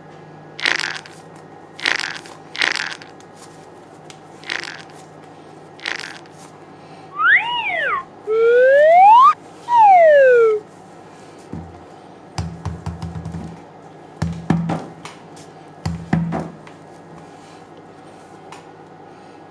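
Cartoon sound effects: a string of short whooshes, then a loud whistle gliding up and back down, then short low buzzes with clicks.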